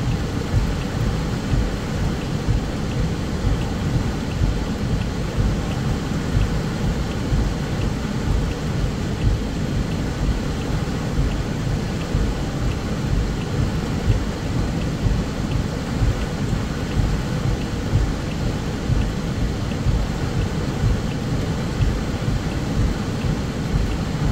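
Torrential rain drumming steadily on a car's roof and windshield, heard from inside the cabin as a dense, heavy rumble.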